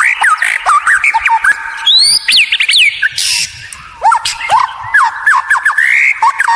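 White-rumped shama (murai batu) singing a fast, varied song of loud whistled notes and quick rising slurs, with clicks and a harsh rasping note a little after three seconds in. It is a lure song (pancingan) meant to provoke caged shamas into singing.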